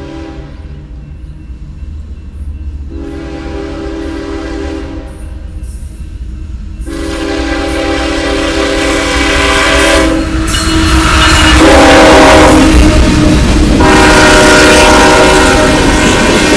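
Freight train locomotive horn blowing several long blasts with short gaps between them, getting louder as the train approaches. Over the second half the heavy noise of the passing train builds and takes over, loud.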